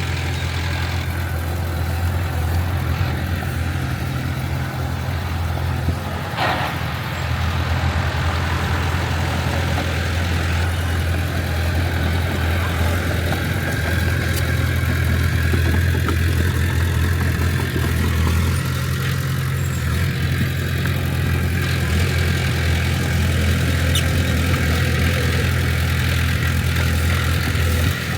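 A heavy earthmoving machine's diesel engine running steadily with a low, even hum, and one brief knock about six seconds in.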